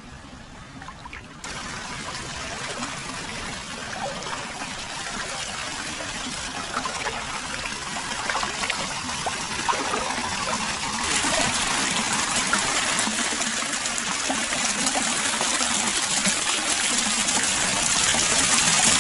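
Hot-spring water running continuously into a foot bath, a steady splashing trickle. It gets louder in two sudden steps, about a second and a half in and about eleven seconds in.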